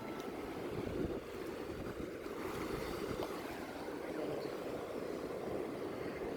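Steady surf washing on a sandy beach, with wind rumbling on the microphone.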